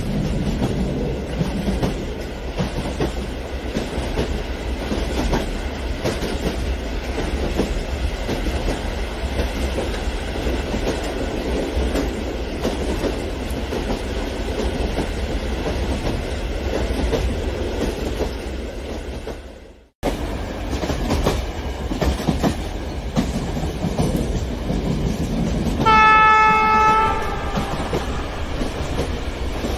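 A train running on its track with a steady rumble and the clickety-clack of wheels over rail joints. It fades out about two-thirds of the way in and starts again at a cut. Near the end a horn sounds once for about a second and a half.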